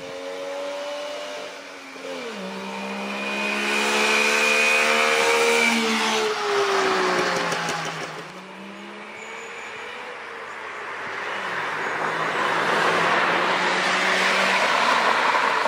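Saab Sonett's 748 cc three-cylinder two-stroke engine revving hard as the car is driven fast past on the road. Its pitch climbs and drops sharply about two seconds in and again around six to eight seconds, and it builds once more as another run comes in near the end.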